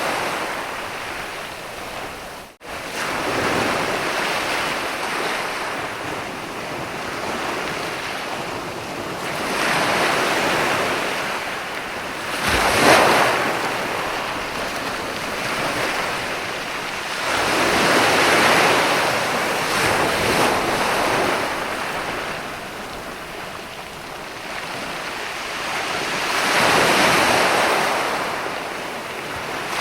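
Sea waves breaking and washing up on a sandy beach, the surf rising and falling in slow swells every few seconds. The sound cuts out for a moment about two and a half seconds in.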